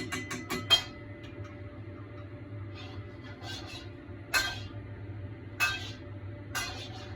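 Sharp clinks and clicks from a wok on the stove as its oil heats: a quick cluster of four or five in the first second, then three single ones about a second apart, over a steady low hum.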